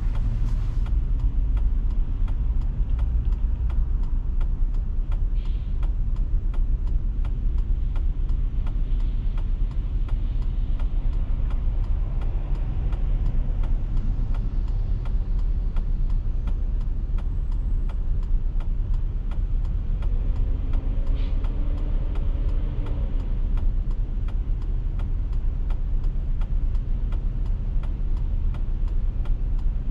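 Steady low rumble of a car driving, with a faint engine tone rising and falling about twenty seconds in.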